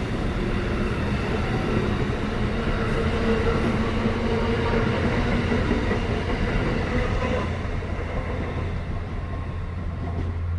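A train passing on the tracks: a loud, steady rumble of wheels on rail with a low hum and a couple of steady tones that fade about three-quarters of the way through. It cuts off suddenly at the end.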